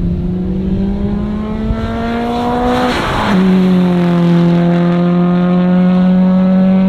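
Subaru WRX STi Spec C's turbocharged flat-four engine accelerating hard, its pitch climbing steadily through a gear. About three seconds in there is an upshift with a brief rush of hiss and a drop in pitch, then it climbs again through the next gear.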